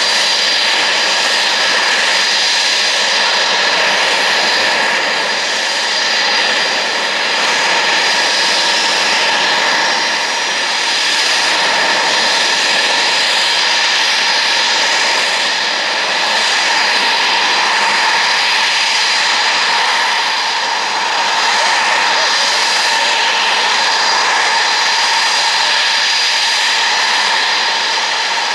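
Eurofighter Typhoon jet engines running steadily: a high whine held over a constant loud rush.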